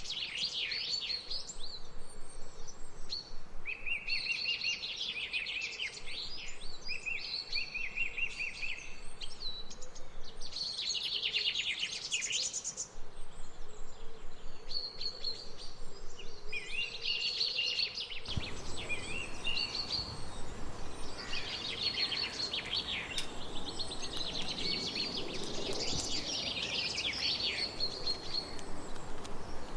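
Several songbirds singing at once, with rapid trills and repeated chirping phrases overlapping, over a steady background hiss that turns fuller about two-thirds of the way through.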